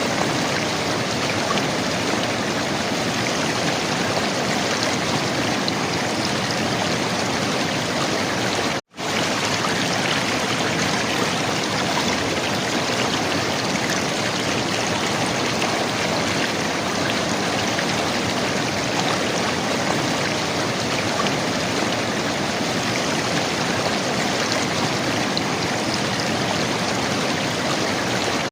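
River water flowing and gurgling in a steady, unbroken rush, with the sound cutting out for a split second about nine seconds in.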